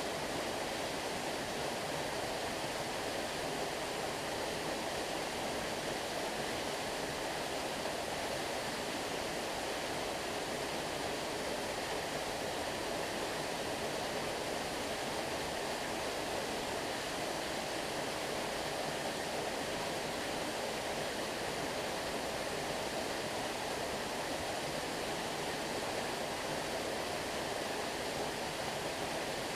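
Stream water flowing, a steady even rush that keeps the same level throughout.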